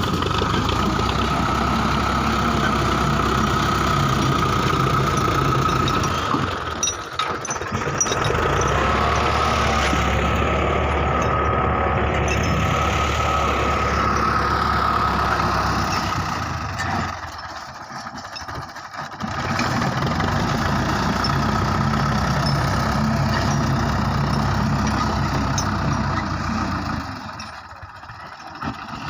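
Belarus 510 tractor's diesel engine running steadily with a constant whine. The sound dips briefly three times, about a quarter, two thirds and nine tenths of the way through.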